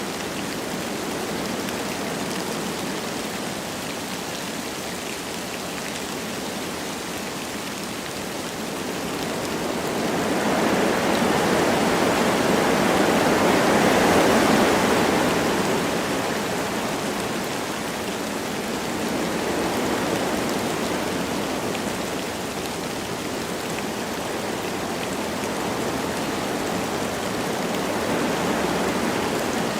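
Wind blowing through forest trees with light rain falling: a steady rushing noise that swells into a louder gust from about ten seconds in, peaking around fourteen seconds, then eases back.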